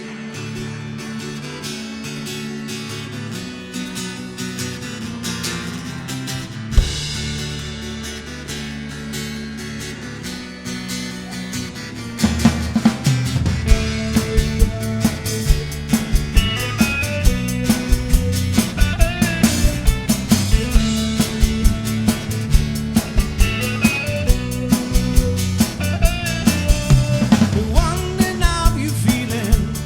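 Live band music: a soft opening of held chords with a single hit about seven seconds in, then about twelve seconds in the drums and full band come in, louder, with a steady beat.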